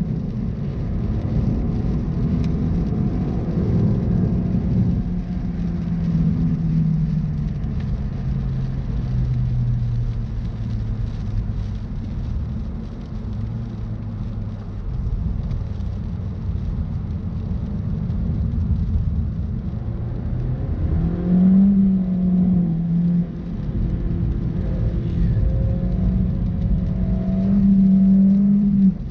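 2018 Suzuki Swift Sport's 1.4-litre Boosterjet turbocharged four-cylinder engine heard from inside the cabin while driving. The revs fall gradually over the first ten seconds or so and stay low, then climb quickly about two-thirds of the way through, hold high, and drop off just before the end.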